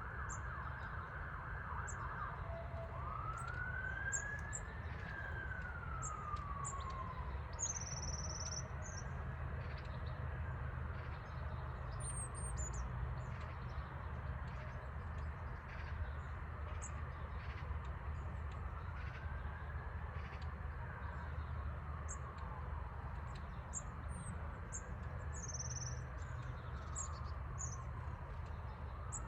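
An emergency-vehicle siren switches from a fast yelp to a slow wail about two seconds in, its pitch rising and falling every four to five seconds. Songbirds chirp in short high notes throughout, over a steady low rumble.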